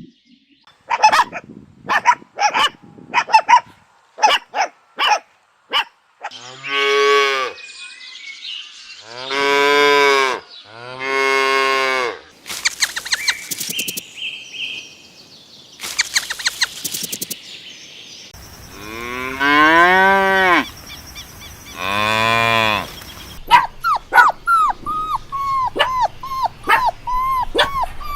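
Cattle mooing: about five long, drawn-out moos whose pitch bends up and down. Short, higher calls come before them, and a quick run of short falling calls comes near the end.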